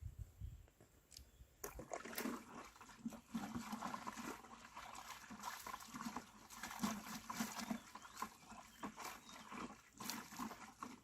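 Water splashing and sloshing in short, irregular strokes, starting about two seconds in.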